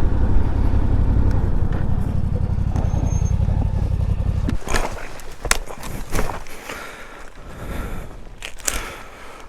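Yamaha Ténéré 700 adventure motorcycle's parallel-twin engine running steadily, then shut off abruptly about four and a half seconds in. After that come scattered crunches and knocks on the dirt.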